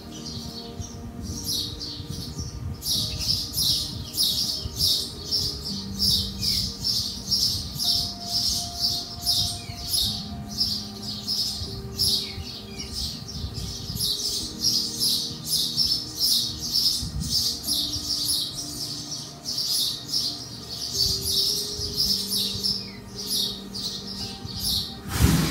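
Small birds chirping over and over, about two high chirps a second, over soft music of held notes that change pitch every few seconds.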